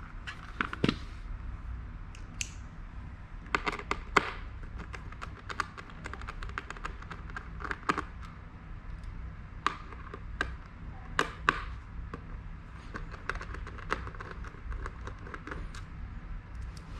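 Irregular small clicks and taps of tools and metal parts being handled while a Mac mini is taken apart for a RAM upgrade, over a steady low hum.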